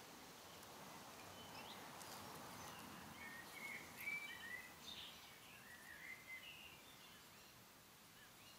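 Faint steady hiss of background noise, with a few brief, faint bird chirps clustered in the middle.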